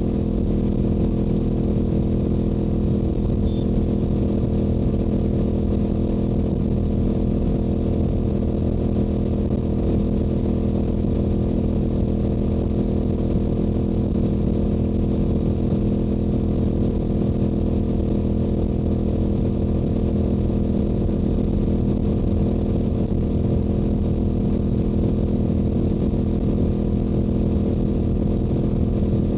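Stock Yamaha YZF-R7's 689 cc parallel-twin engine and exhaust running at a steady highway cruise, the pitch holding constant with no shifts or throttle changes.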